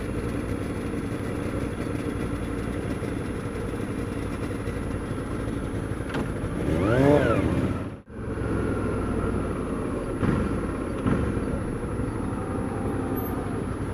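Motorcycle on the move, heard from the rider's helmet: a 2008 Suzuki DL650 V-Strom's V-twin engine running steadily under wind and road noise. About seven seconds in an engine revs up and back down, and the sound drops out for a moment just after.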